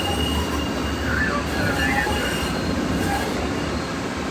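MBTA Green Line light rail train of Type 7 and Type 8 cars running through the subway tunnel: steel wheels squealing on the rails in several high, wavering tones over a steady low rumble.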